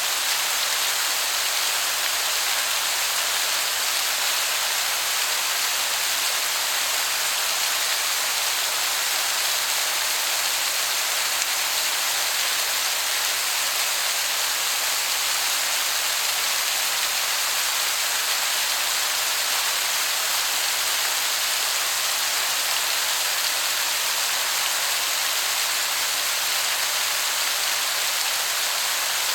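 Waterfall: a steady, even rush of falling water that sounds like heavy rain.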